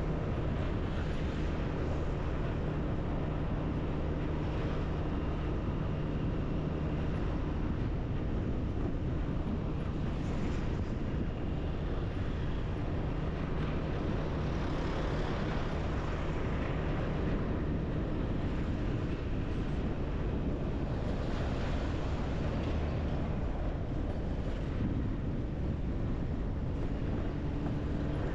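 Motorbike engine running steadily while riding, under continuous wind and road noise.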